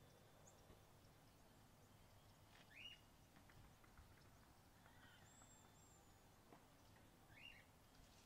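Faint bird calls over near silence: a short descending chirp about three seconds in and another near the end, with a thin high whistle between them.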